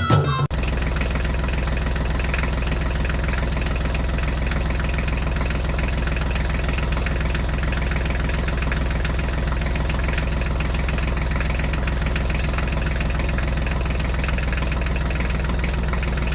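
Tractor engine idling steadily. It cuts in about half a second in, as music stops, and holds an even, unchanging rumble.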